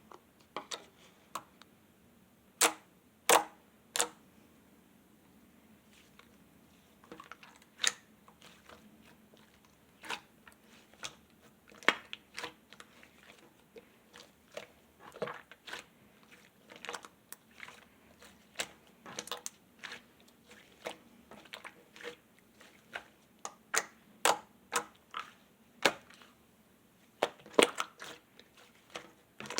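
Slime being pressed, squished and stretched by hand, giving irregular sharp clicks and pops, a few much louder than the rest, as trapped air bursts.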